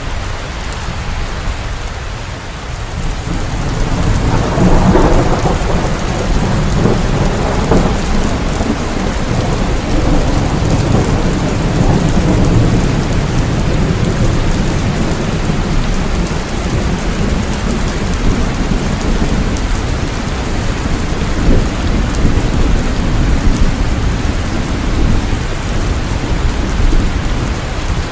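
Steady heavy rain with a low roll of thunder that swells about four seconds in and rumbles on for several seconds before easing back under the rain.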